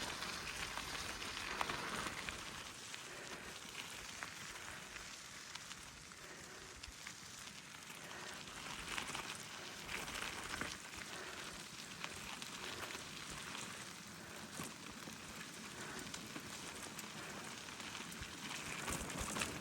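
Gravel bike tyres rolling over a wet, muddy dirt road: an even crackling hiss full of small clicks and pops.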